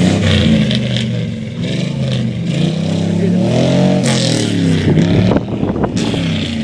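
Vehicle engine idling, then revving up and falling back about three to five seconds in.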